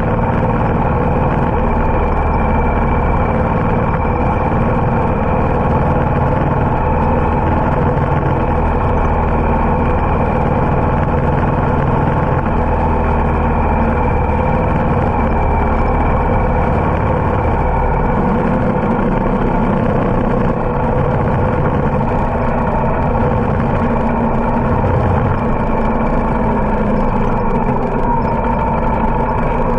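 Harley-Davidson motorcycle's V-twin engine running steadily under way, mixed with road and wind noise. The low engine note shifts about 18 seconds in.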